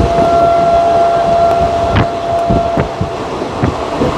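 Passenger coach of a moving express train heard from its open doorway: a steady rumble of wheels on rails with irregular sharp clacks over the rail joints, the loudest about two seconds in. A steady high whine runs alongside and fades out about three seconds in.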